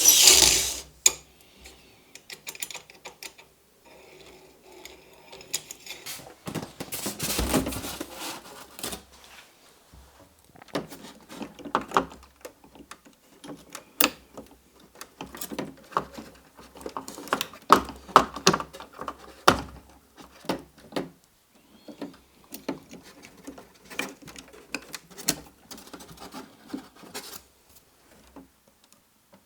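Irregular clicks, taps and small rattles of locomotive gearbox parts and hand tools being handled on a workbench while broken gears are replaced. A short loud rustle comes at the start and a longer scraping noise about seven seconds in.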